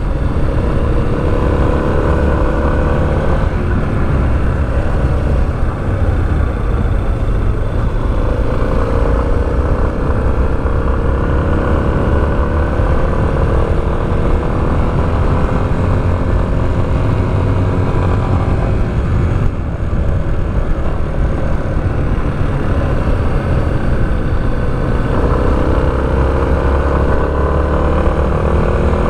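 Motorcycle engine running under way, heard from the bike itself. Its note climbs slowly with speed and drops back several times at gear changes, over a constant low rumble.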